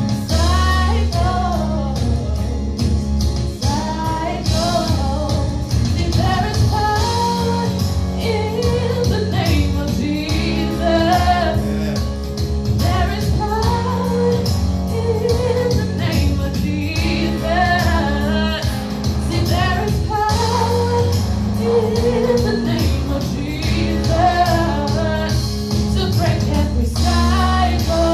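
Gospel worship song: a voice singing a melody over instrumental backing with a sustained bass line.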